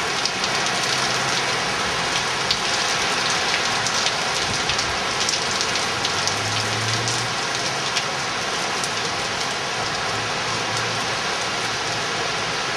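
Heavy storm rain pouring steadily, with many sharp drop hits ticking through it.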